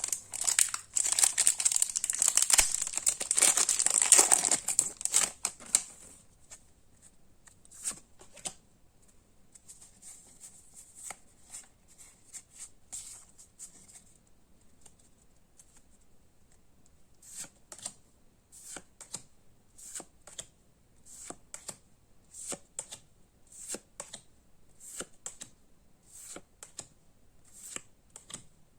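Foil booster pack wrapper being torn open and crinkled for the first several seconds. Later, trading cards are slid and flicked one after another, about two soft snaps a second.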